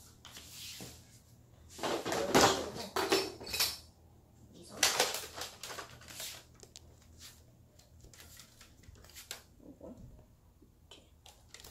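Hard objects being handled and set down: two bursts of clattering knocks, about two seconds in and about five seconds in, then scattered light clicks.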